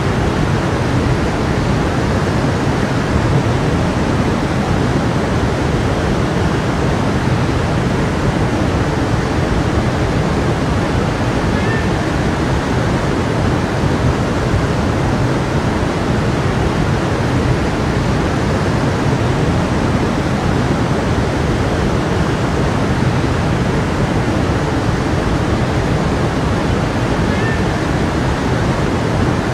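A stream flowing, a steady rush of running water.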